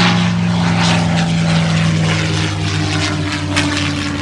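Loud aircraft flying past low overhead: a steady engine drone over a rushing noise, one tone of which drops slightly in pitch partway through as it goes by.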